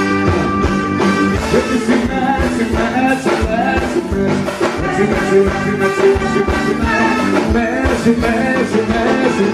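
Live forró band music with a steady beat.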